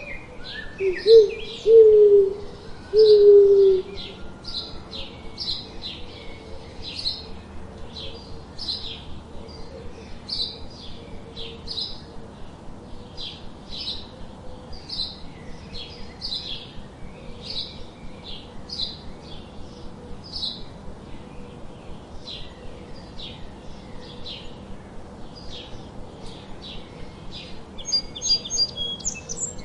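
Songbirds chirping, short high chirps repeating about twice a second, with three loud low cooing calls about a second in.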